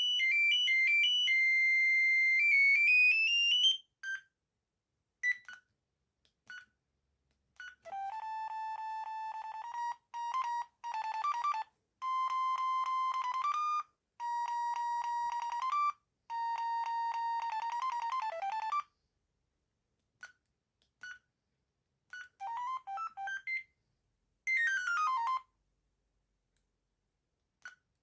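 Amstrad S288 mobile phone playing its built-in ringtones, simple one-note-at-a-time beeping tunes. One tune ends with a quick rising run about four seconds in. Short single beeps follow, then a tune of held steady notes, and brief chirping phrases near the end, with silent gaps between.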